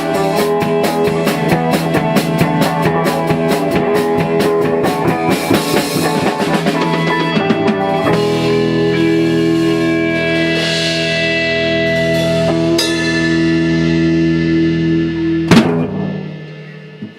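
Rock band playing live with drum kit and guitar, fast drumming over chords that resolve into a long held final chord. It is closed by one loud hit that rings out and fades: the end of a song.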